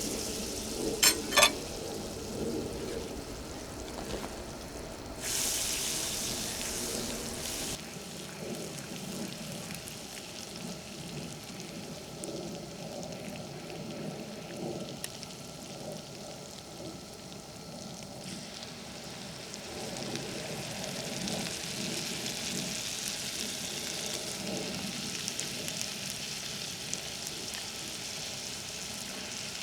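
Food sizzling as it fries in a pan over a campfire, with two sharp clicks about a second in. The sizzle is louder for a few seconds around 5 s in and again from about two-thirds of the way through.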